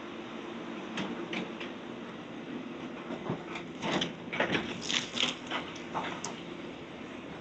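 Heavy machinery engine running steadily while demolition debris clatters and knocks in a burst of sharp impacts about four to six seconds in.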